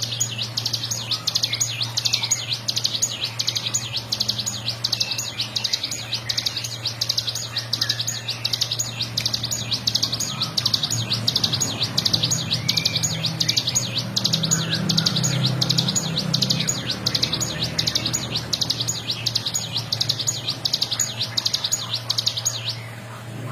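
Ciblek gunung (a prinia) singing a fast, unbroken rattling trill of rapidly repeated high notes, its 'ngebren' song. The trill stops shortly before the end, and a steady low hum runs underneath.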